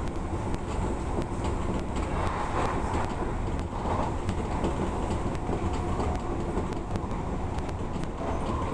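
Odakyu Odawara Line electric commuter train running along the track, heard from inside the front car: a steady rumble of wheels on rails with scattered light clicks.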